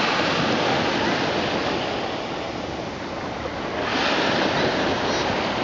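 Sea waves washing in a steady noisy wash, swelling again about four seconds in.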